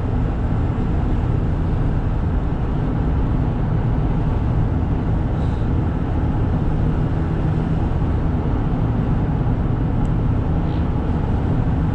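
Cabin sound of a 1995 Toyota Granvia cruising on the freeway at about 105–110 km/h: its 1KZ-TE 3-liter turbo diesel runs steadily between 2,000 and 2,500 rpm, under a constant hum of road and wind noise.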